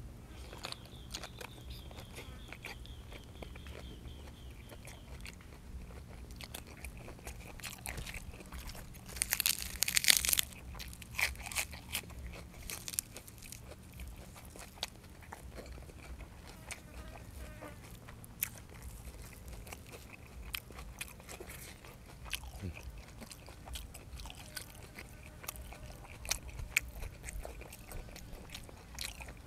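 Close-up chewing and biting of blanched squid and crunchy raw vegetables, with small clicks and crunches throughout and a louder crunching burst about nine seconds in.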